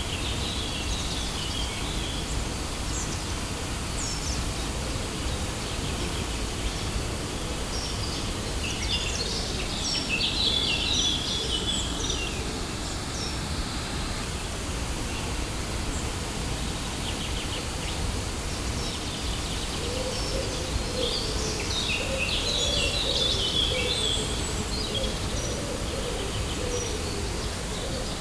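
Steady rushing noise of a waterfall, with small birds chirping in short flurries near the start, about a third of the way in, and again about three quarters through.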